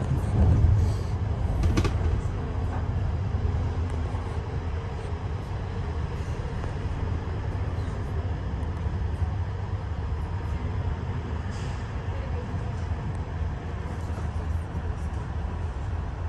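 Passenger train hauled by an SU42 diesel locomotive running along the track, heard on board: a steady low rumble, with a sharp knock about two seconds in.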